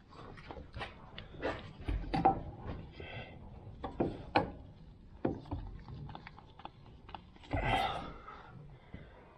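Irregular clinks and knocks of hand tools on metal, with a longer scraping clatter near the end, from work on a truck's steering linkage.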